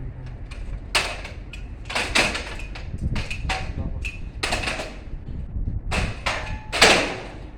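A run of irregular knocks, clanks and short scrapes, about nine of them, the loudest near the end: hard objects being handled and knocked together while an air conditioner is taken down.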